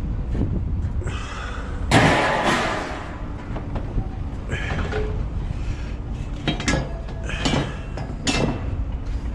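Scrap metal being handled: a loud crash and scrape about two seconds in, then several sharp metallic clanks that ring briefly, over a steady low rumble.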